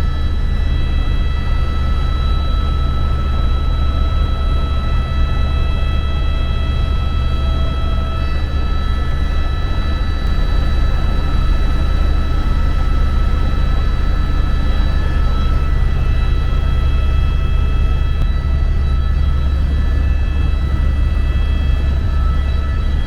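Helicopter in flight heard from inside the cabin: a steady, loud low drone with a high turbine whine held on several steady tones.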